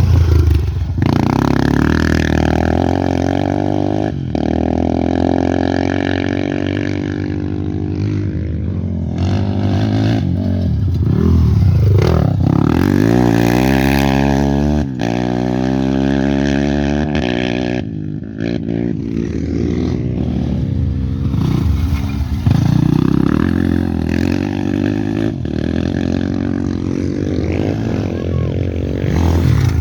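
Off-road race motorcycles passing one after another at racing speed. Each engine's pitch climbs and then drops as it goes by, in several passes.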